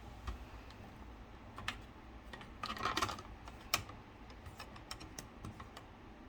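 Air conditioner making irregular clicking sounds: a quick cluster of clicks about halfway through, a sharp loud click just after, then scattered lighter clicks, over a low steady hum.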